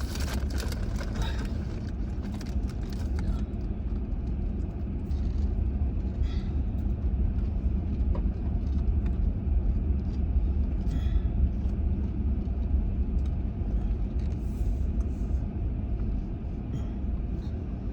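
A vehicle driving on a dirt and gravel road: a steady low rumble of engine and tyres, with a few brief faint knocks.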